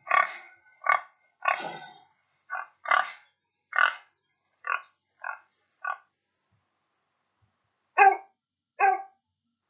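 Animal sound effects: a run of short pig oinks, about one a second and getting fainter, then after a pause two louder dog barks about a second apart near the end.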